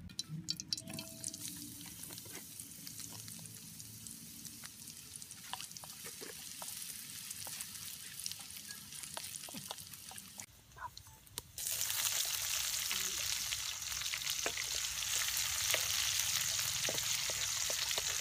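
Oil in a steel wok over a wood fire hissing quietly with scattered crackles, then, about two-thirds of the way in, loud steady sizzling as chopped aromatics fry and are stirred with a wooden spatula.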